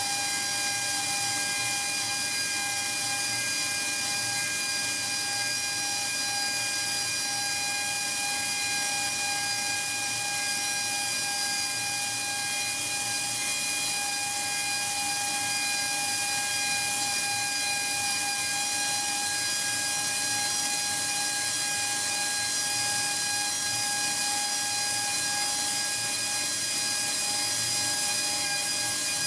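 Air-powered portable flange facing machine running steadily: a high, even whine from its air motor over a strong hiss of exhaust air.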